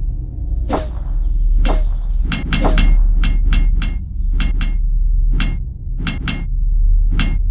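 About fifteen sharp, irregularly spaced clicks and knocks, some in quick clusters, over a steady deep rumble.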